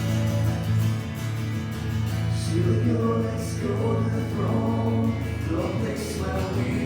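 Christian worship music: a band playing sustained chords, with a group of voices singing that comes in about two and a half seconds in.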